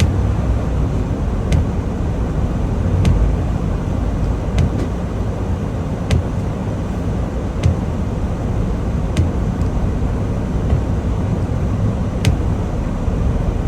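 Steady low engine and road rumble inside a semi-truck's cab, with a short sharp click repeating about every second and a half.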